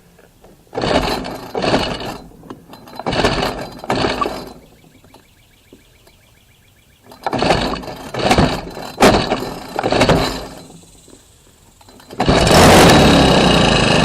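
Troy-Bilt four-stroke string trimmer being pull-started with the throttle held open: two runs of about four recoil-cord pulls cranking the engine. Near the end it fires and runs for about two seconds, nearly starting.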